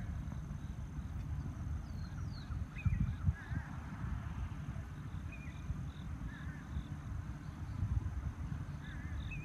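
Small birds chirping every second or two over a steady low rumble with a few heavier thumps.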